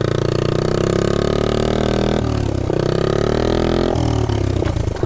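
1969 Honda Z50 mini bike's small four-stroke single-cylinder engine running under way, its pitch climbing as it revs. The revs drop off briefly about two seconds in, climb again, and drop off again near the end.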